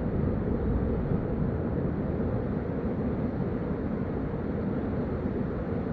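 Steady, deep rumble of a running vehicle, unchanging, with no distinct knocks or changes.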